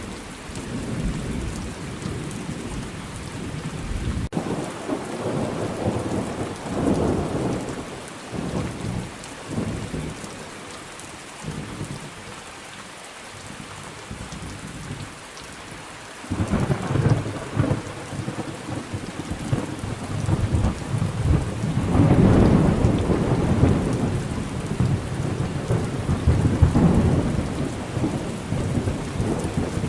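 Thunderstorm: steady rain falling, with long rolls of thunder, one rumbling from about four seconds in and a louder, longer roll from about sixteen seconds in that peaks around twenty-two seconds and dies away near the end.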